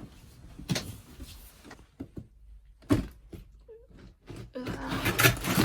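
A house door being handled: a few separate clicks and knocks from the latch and handle, the loudest about three seconds in, then a louder second of knocking and rattling near the end as the door is pushed.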